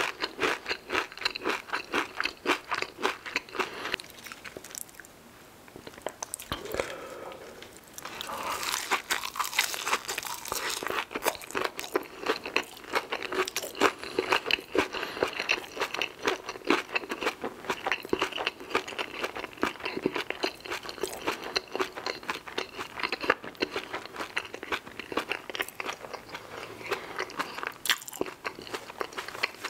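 A man chewing a full mouthful of fried food close to the microphone, in rapid crunching strokes. The chewing eases off for a few seconds about four seconds in, then picks up again.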